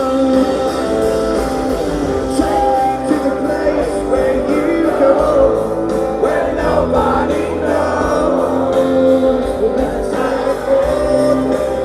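Rock band playing live: electric guitars and drums with singing, on a steady beat.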